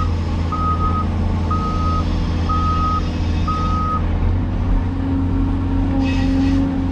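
Diesel engine of a Cat 336E hydraulic excavator running steadily while its travel alarm beeps about once a second, four beeps, stopping about four seconds in as the machine stops moving. After that the engine note rises and holds higher.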